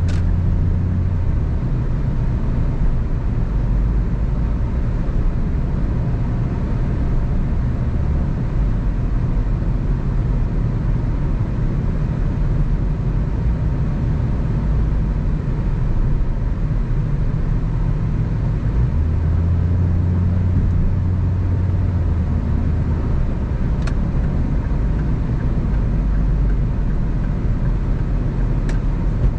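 Car driving on a road: steady engine and tyre rumble, the engine's low hum shifting pitch a few times as speed changes. A couple of brief ticks come near the end.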